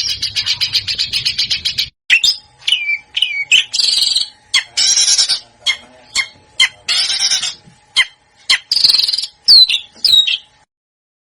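Recorded songbird song of the kind used to tutor cage birds. A fast, even trill cuts off abruptly about two seconds in. A different bird follows with a mix of short harsh rasping calls, sharp clicks and quick down-slurred whistles, which stop shortly before the end.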